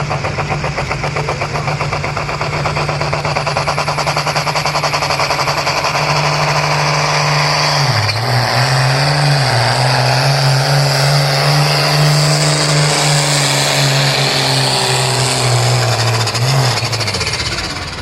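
Case IH pulling tractor's engine at full throttle under load during a pull down the track. Its low note dips and wavers about halfway through, then holds, and the sound falls off just before the end as the pass stops.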